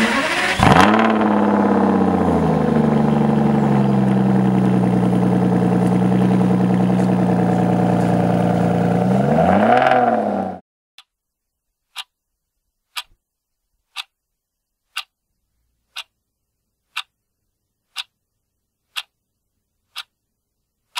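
Aston Martin DBS V12 engine revving sharply, settling into a steady note and blipping once more before cutting off about halfway through. Then a countdown timer ticking once a second.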